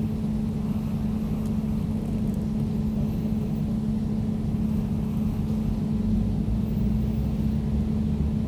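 Air conditioner running steadily: a constant low hum with a deeper rumble beneath it.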